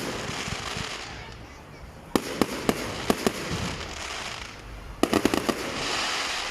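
Fireworks going off: a run of sharp bangs spaced a few tenths of a second apart about two seconds in, then a rapid volley of cracks about five seconds in that trails into a hiss.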